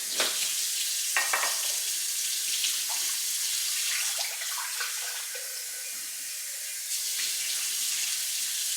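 Kitchen tap running water into the sink, a steady hiss, with a few light knocks as things are handled under the stream.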